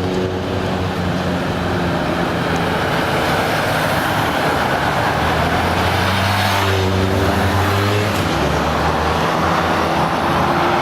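Busy street traffic: vehicle engines running, with steady low engine hums from idling or slow-moving vehicles coming and going over the road noise.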